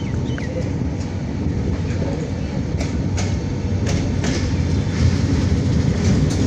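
Jamalpur Express passenger train running, heard from on board: a steady rumble of wheels on the track, with several sharp clacks about halfway through.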